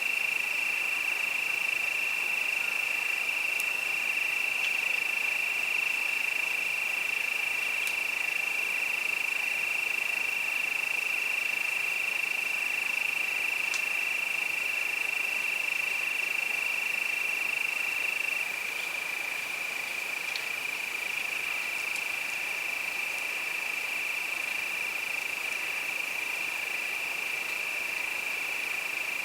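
Crickets singing in a steady chorus, one continuous high trill that eases slightly in level about two-thirds of the way through.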